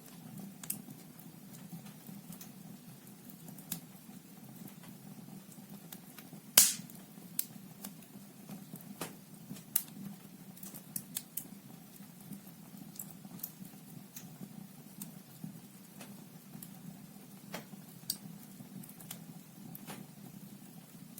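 Wood fire crackling in a fireplace: logs burning with irregular sharp pops, one loud snap about six and a half seconds in and a quick run of pops around ten seconds, over a steady low rumble of the flames.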